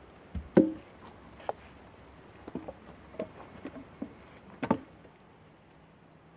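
A string of irregular, sharp knocks and clicks, about eight of them, the loudest a little over half a second in and another double knock near the end.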